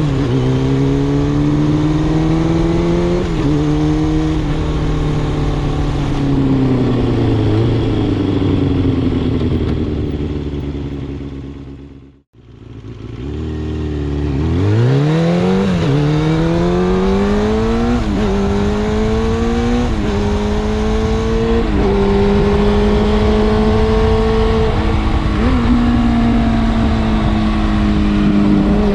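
Kawasaki Balius II's inline-four through an RPM 4-2-1 aftermarket exhaust while riding. It pulls up through the gears with a short drop in pitch at each upshift, then eases off and slows. Just past the middle the sound fades out to nothing and straight back in, then the engine accelerates again through several quick upshifts and settles into a steady cruise.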